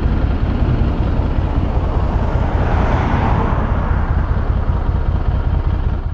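Harley-Davidson Street 500's V-twin with its stock exhaust running steadily, heard from a helmet chin mount, dense low rumble with a rushing haze above it. A brief swell of higher-pitched noise comes about three seconds in.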